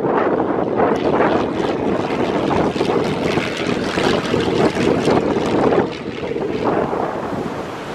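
Wind buffeting the microphone, with the drone of a Robin 2160 light aircraft's single propeller engine underneath; the noise eases a little about six seconds in.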